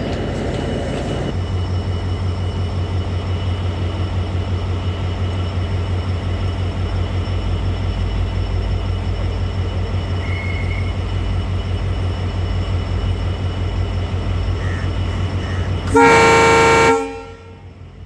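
A train's diesel engine runs steadily with a low hum, then sounds one loud horn blast of about a second near the end that cuts off sharply.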